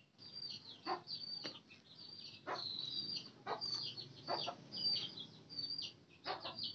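Birds chirping over and over in short, high calls, with a few brief clicks mixed in.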